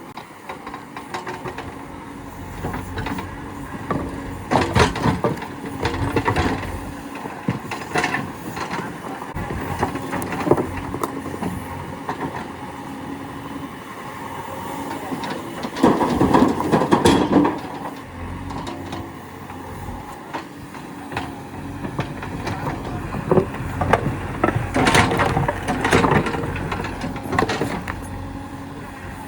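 JCB 3DX backhoe loader's diesel engine running steadily, with repeated knocks and clatters as rocks are loaded into a tractor trolley.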